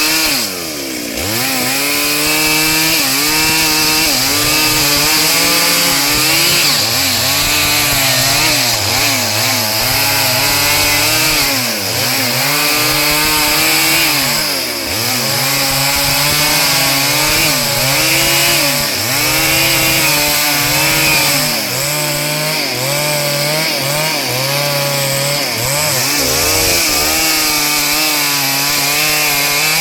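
Chainsaw running hard while cutting wood, its engine pitch repeatedly dipping and climbing again as it works through the cut. It eases off briefly about a second in.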